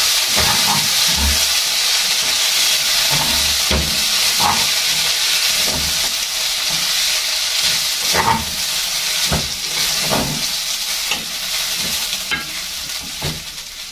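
Rice and spaghetti pieces frying in margarine in a pan, sizzling steadily, with a spoon scraping and knocking against the pan now and then as they are stirred.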